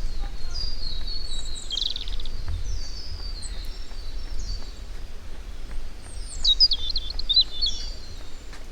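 Several birds singing: a steady chorus of short, high, downward-slurred chirps repeating over and over, with a louder warbling phrase from one bird about six seconds in. A low rumble sits underneath.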